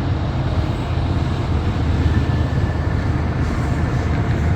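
Heavy loaded coal train rolling past below, a steady loud low rumble of wheels and loaded hopper cars.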